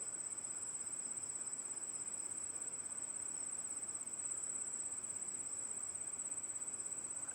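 Insects, cricket-like, trilling: one continuous, very high, rapidly pulsing trill, with a fainter second tone beneath it and faint background hiss.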